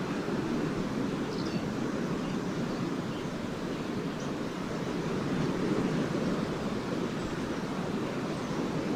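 Lake waves washing steadily onto the beach, a continuous surf noise without breaks, with a few faint, short chirps of swallows overhead.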